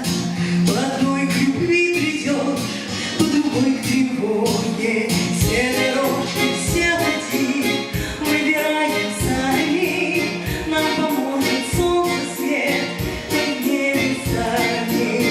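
A song performed live: a female vocalist singing over musical accompaniment with a steady, regular beat.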